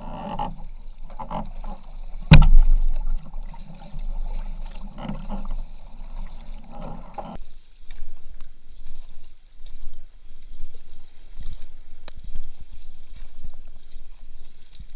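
A kayak being paddled: irregular paddle strokes in the water, with a steady low rumble of wind on the microphone. A single sharp knock sounds a couple of seconds in.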